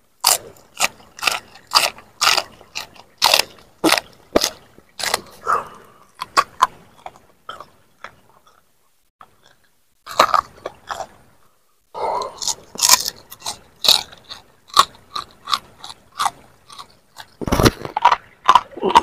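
Close-up crunching and chewing of raw vegetables and leafy greens with sambal: crisp bites and chews at about two a second, breaking off twice for a moment in the middle. There is a low thump near the end.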